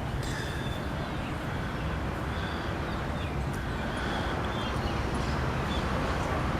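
Park ambience: a steady low rumble with scattered short bird chirps over it, growing slightly louder toward the end.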